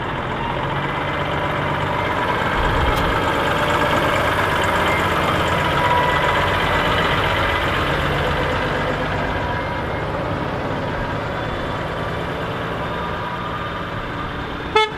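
Heavy truck engine running, growing louder over the first few seconds and then slowly fading. A short sharp sound comes just before the end.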